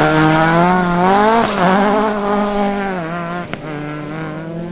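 Rally car engine run hard at high revs, its pitch climbing and then dropping at gear changes about 1.5 and 3 seconds in. There is a sharp crack about halfway through.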